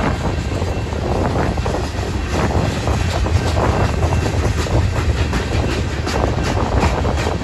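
Freight cars of a mixed manifest train (tank cars, covered hoppers, a boxcar) rolling steadily past, wheels clicking over the rail joints over a low rumble, with wind buffeting the microphone.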